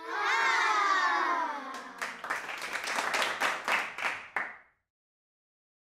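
A long whoop falling in pitch, then clapping for about two and a half seconds that stops abruptly.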